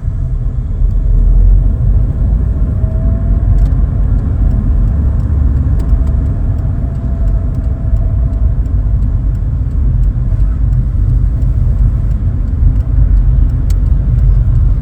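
Cabin noise of an early-1990s Vauxhall Cavalier with the 2.0-litre eight-valve C20NE engine on the move: a steady low rumble of engine and road, with a faint whine that rises a little about three seconds in and then holds.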